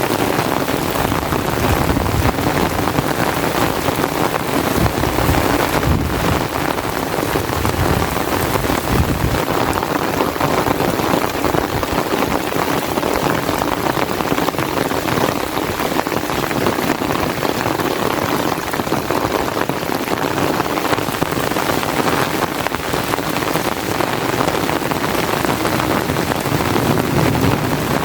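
Steady rain falling and pattering on an umbrella, a dense, even hiss with no break.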